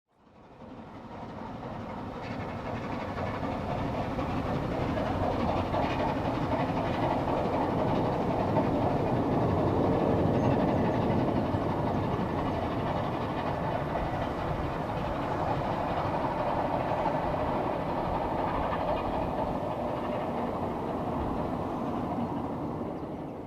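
Steam-hauled train passing, the locomotive working and the wheels running on the rails, growing louder over several seconds, loudest around the middle, then fading away.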